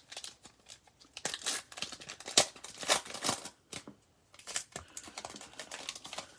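A plastic foil trading-card pack wrapper being ripped open by hand and crinkled, in two spells of crackling, with a sharp click at the very start.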